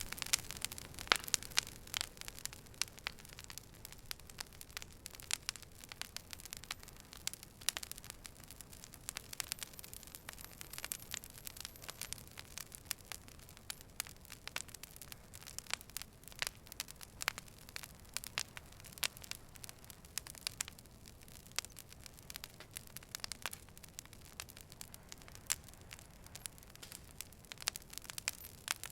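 Wood fire burning, crackling with many sharp, irregular pops and snaps over a soft hiss.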